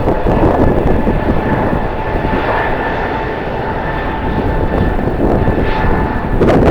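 Airliner engines running, a steady whine over a dense rumble that swells again near the end, with wind on the microphone.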